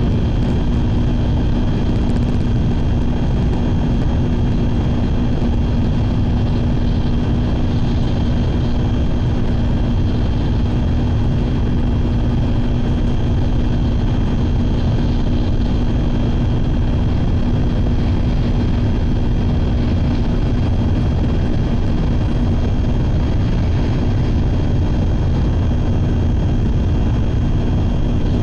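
Shinkansen bullet train running at speed, heard from inside the passenger car: a steady, even rumble of wheels and air with a constant hum over it.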